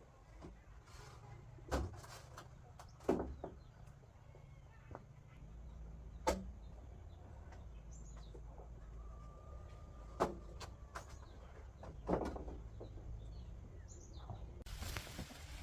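Scattered sharp knocks and clunks, about five in all, over a low steady rumble, with faint bird chirps now and then and a burst of rustling noise near the end.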